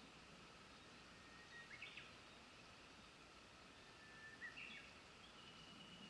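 Faint steady murmur of a mountain river, with a bird calling twice: each call a short held whistle that jumps up in pitch at the end.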